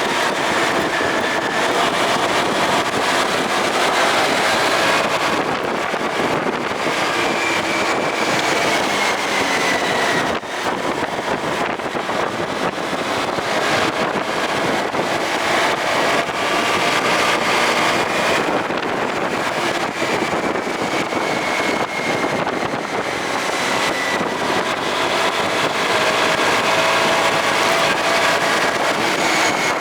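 Motorcycle engine running under way, its pitch slowly rising and falling with speed, with wind noise on the microphone.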